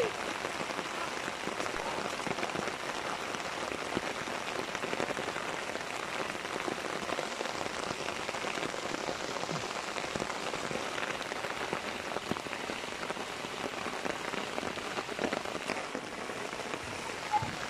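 Steady rain falling on wet grass and ground, an even pattering hiss that keeps up at the same level throughout.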